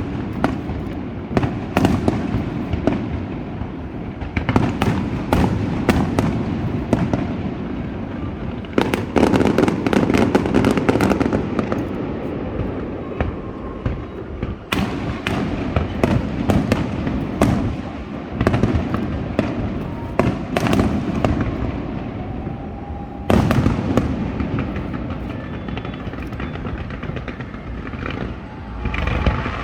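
Aerial fireworks going off continuously: dense, rapid crackling and popping shell bursts over a low rumble, with heavier volleys of bursts at several points.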